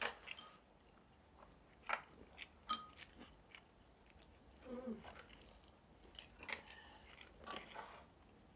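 Two people quietly chewing and eating a Korean home-cooked meal, with a few sharp clicks, the loudest about two seconds in and again a moment later.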